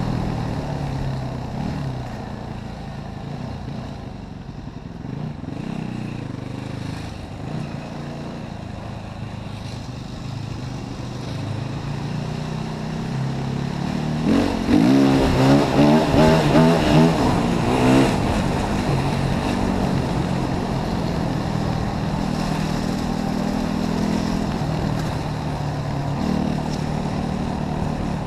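Yamaha WR450F enduro bike's single-cylinder four-stroke engine, heard from on board, running and changing pitch with the throttle. About halfway through it revs hard and fast up and down for a few seconds, then settles back to a steadier run.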